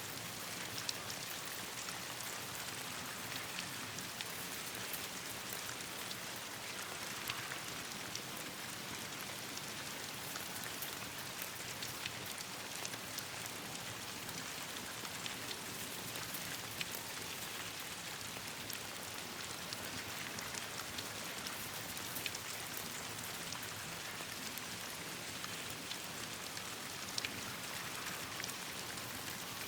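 Steady rain falling on leaves and branches: an even hiss with many small sharp ticks scattered through it.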